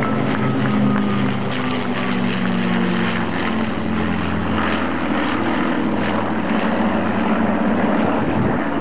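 Piston aero-engines of the Battle of Britain Memorial Flight's Lancaster, Spitfire and Hurricane droning steadily in flight: a propeller-engine hum with several steady tones.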